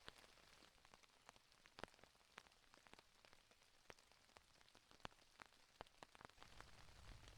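Light rain, with scattered single drops tapping irregularly on a hammock tarp overhead. A faint low rumble joins near the end.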